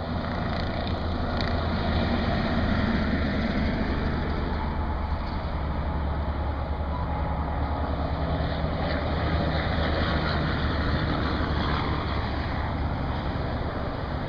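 Diesel semi truck engine pulling hard up a long grade, a steady low drone, over highway traffic and tyre noise.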